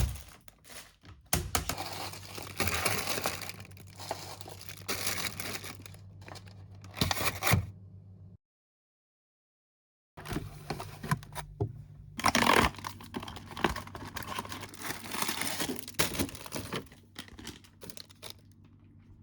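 Close-up crinkling and tearing of packaging being handled, with many light clicks and taps, over a faint steady low hum. The sound stops dead for about two seconds around the middle, then the handling resumes.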